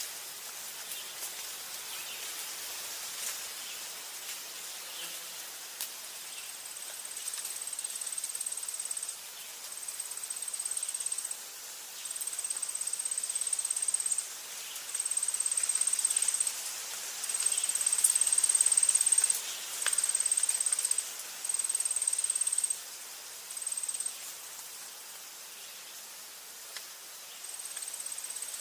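An insect trilling on one steady high pitch in phrases of one to three seconds with short gaps, pausing for a few seconds near the end before starting again, over a soft steady hiss of forest ambience with faint scattered ticks.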